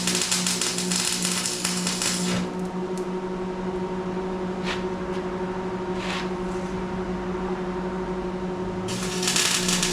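Electric arc welding, laying tack welds on steel: the arc crackles for about two seconds and stops, then strikes again near the end. In the gap there is a steady hum and a couple of short clicks.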